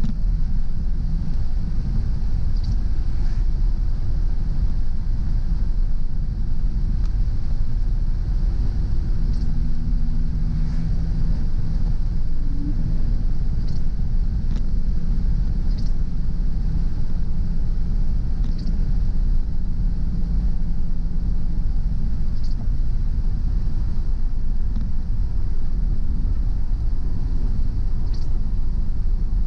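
Car driving along a road: steady low rumble of engine and tyres, with faint short ticks every few seconds.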